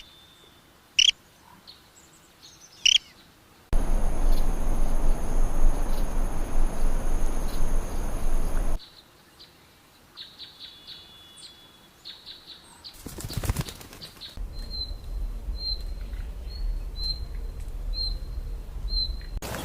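Bird calls from several spliced recordings. Sparse short chirps give way about four seconds in to a stretch of loud rushing noise with a steady high whine. Chirps then return, ending in a short high call repeated about once a second.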